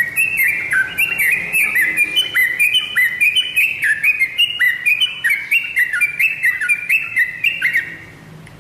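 Yellow-vented bulbul (trucukan) singing a long, fast run of short chirping notes, stopping about eight seconds in.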